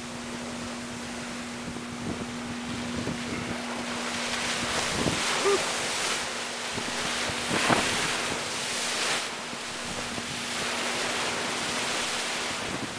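Storm-driven waves crashing on the shore in a strong wind, with wind buffeting the microphone. The surf swells louder a few times.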